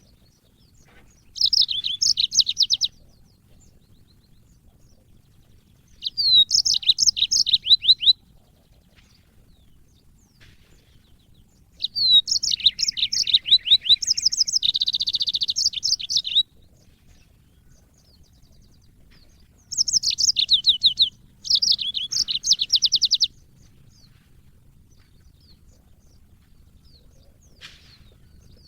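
Yellow-fronted canary singing: five bursts of rapid, high, twittering notes, each one to four seconds long, with pauses of a few seconds between them.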